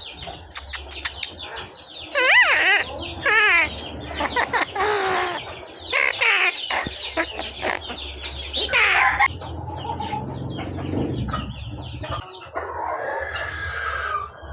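A pet talking bird chattering: a string of squawks, clicks and short calls, with a warbling whistle a couple of seconds in.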